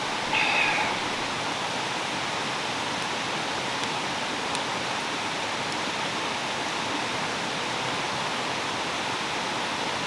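Valley stream rushing steadily over rocks. A short, louder sound comes about half a second in.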